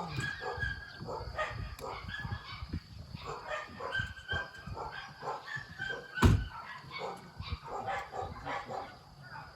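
Dog barking and yipping repeatedly in short calls, with one loud thump about six seconds in.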